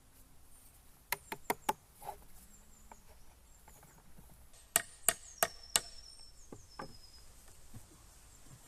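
Hammer blows driving a metal pin into the end of a wooden water-wheel shaft: four quick strikes about a second in, then four more about five seconds in, with a few lighter taps between.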